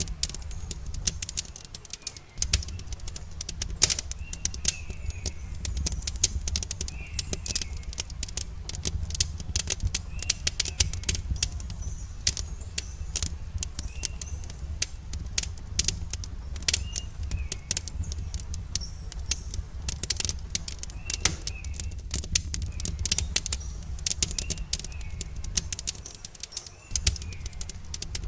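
Campfire crackling with frequent sharp pops over a steady low rumble, while a small bird repeats a short chirping call every second or two.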